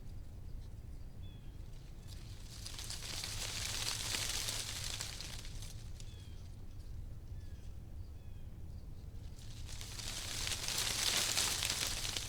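Wind blowing through leaves, the rustle swelling and fading away twice in slow gusts.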